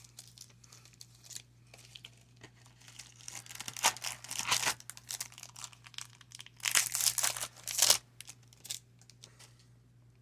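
Crinkling and rustling of a trading-card pack's foil wrapper as it is handled and torn, with cards shuffled in the hands; two longer, louder bursts of crinkling come about three and a half and seven seconds in.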